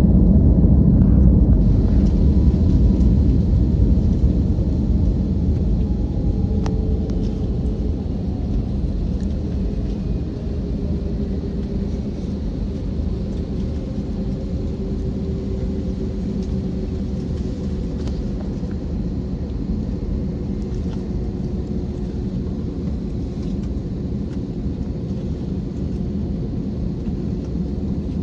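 Steady low rumble of an Airbus airliner's jet engines and airflow heard inside the cabin, a little louder in the first few seconds and easing slightly by about ten seconds in, with a faint drifting whine over it.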